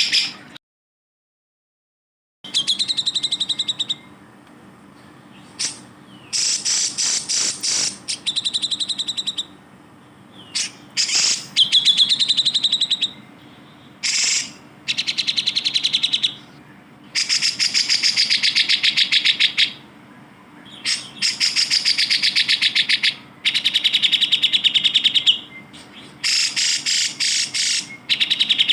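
Cucak jenggot (grey-cheeked bulbul) singing: a series of rapid trills of many fast repeated notes, each lasting one to three seconds, with short pauses between. A dead-silent gap of about two seconds comes just after the start.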